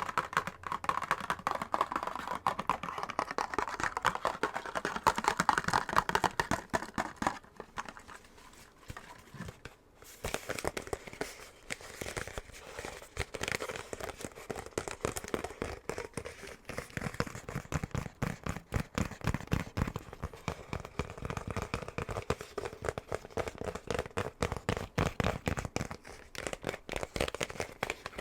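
Fingernails tapping and scratching on a box in fast, dense strokes, with a short lull about eight seconds in.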